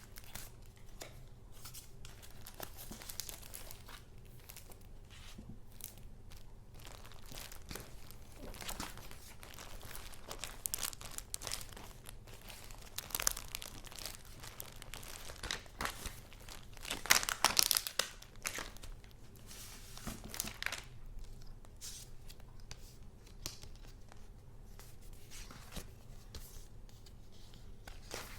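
Paper being handled close to the microphone: sheets and wrappings rustling and crinkling in short, irregular bursts, with the loudest flurry about two-thirds of the way through.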